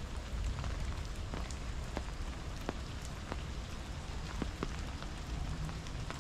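Steady rain falling, with many irregular sharp ticks of single drops striking close by over the even hiss and a low rumble underneath.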